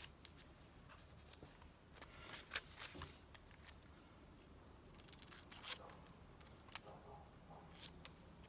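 Scissors snipping through magazine paper, faint, in a few short bursts of cuts with light paper rustling.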